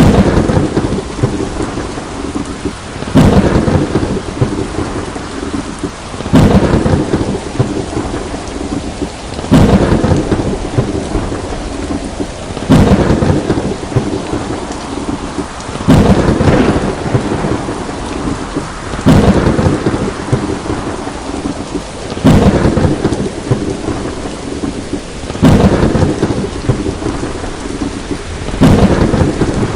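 Thunderstorm: steady rain with a sudden clap of thunder about every three seconds, each one dying away before the next, at very even spacing.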